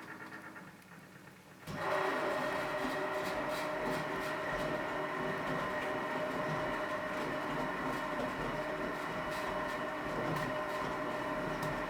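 Philco Bendix W84RX washing machine goes quiet for a moment, then its motor starts abruptly about two seconds in and runs steadily with a whine.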